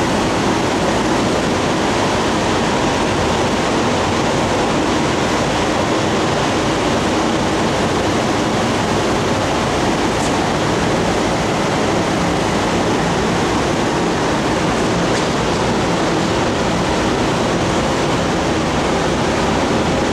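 Steady, loud rushing noise with no breaks, like a large fan or air blower running.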